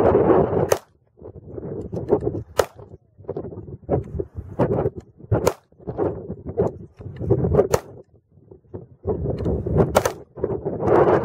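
Glock 21 .45 ACP pistol firing single shots, about one every two to three seconds: the first rounds through the new gun. Wind buffets the microphone between the shots.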